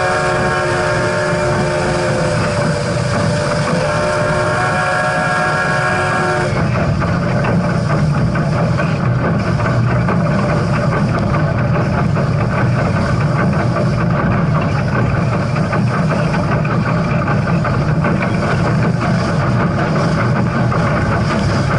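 Steam locomotive whistle blowing a held, multi-note chord, cutting off about six seconds in, over and then followed by the steady rumble and clatter of the train running.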